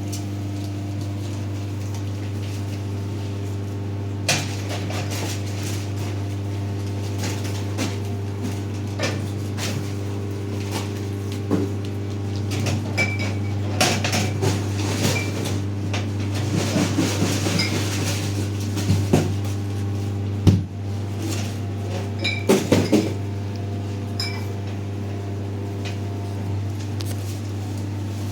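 Objects being handled and set down: scattered knocks, bumps and small clinks, with a run of sharp knocks about twenty seconds in, over a steady low hum.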